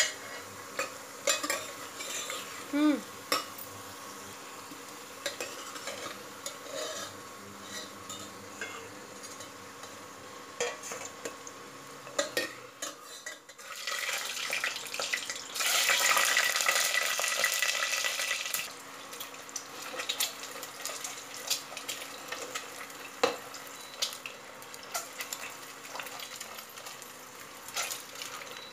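Boiled potatoes frying in hot mustard oil in a steel pot, with a steel ladle clicking against the metal as they are turned and lifted out. About halfway through comes a much louder sizzle lasting about three seconds as fork-pricked boiled eggs go into the hot oil.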